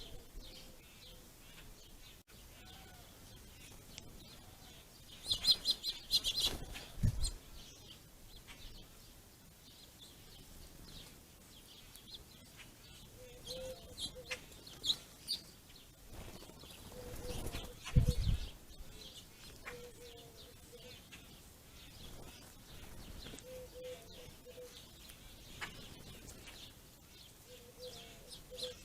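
Birds chirping in scattered short bursts, with a short low clucking note repeating every few seconds in the second half and a couple of low thuds.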